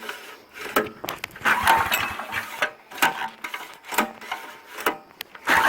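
Small Subaru Robin engine being pull-started with its recoil starter on a cold first start, choke held on: several separate yanks that each turn it over briefly, then it catches and keeps running near the end.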